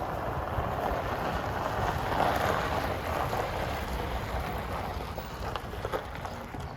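Wind buffeting the microphone: a steady rushing noise over a low rumble that swells about two seconds in, with a few light clicks near the end.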